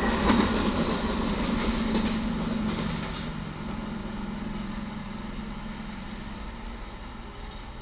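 Double-stack container train's wheels rumbling and clattering on the rails as the cars roll past, the sound fading steadily away.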